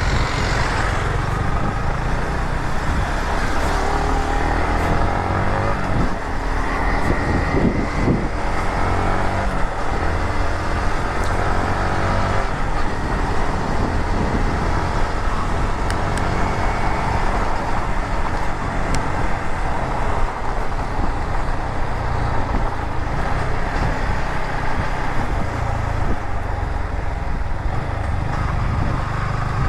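Motorcycle engine running under steady road and wind noise while riding in traffic, its pitch rising and falling a few times in the first ten seconds.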